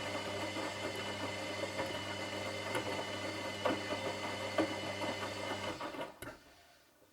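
Washing machine running with a steady motor hum and scattered light clicks and knocks, then the motor cuts off near the end with a click and the sound dies away to quiet.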